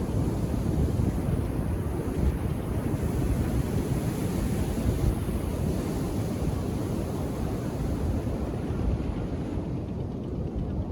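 Ocean surf washing onto a beach, a steady low wash of breaking waves, with wind buffeting the microphone.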